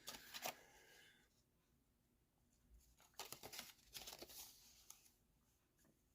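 Faint paper rustling in three short bursts: a coin's certificate of authenticity being handled.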